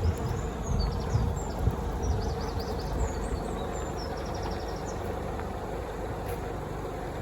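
Outdoor ambience: wind rumbling on the microphone, easing off after the first couple of seconds, with a faint steady hum and brief runs of high chirping in the background.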